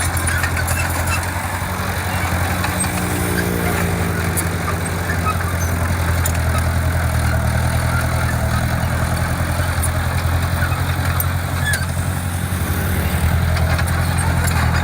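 Diesel engine of heavy earthmoving equipment running steadily, with a brief shift in pitch about three to five seconds in.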